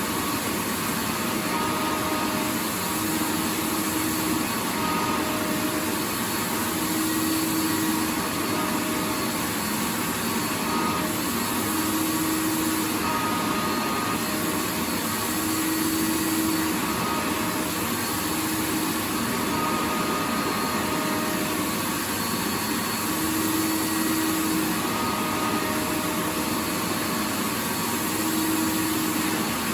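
Vacuum cleaner running steadily, a dense, even noise with faint humming tones that come and go.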